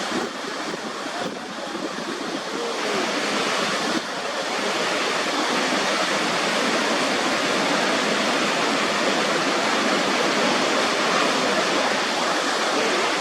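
Waterfall: a steady, dense rush of falling water that grows a little louder and more even about four seconds in.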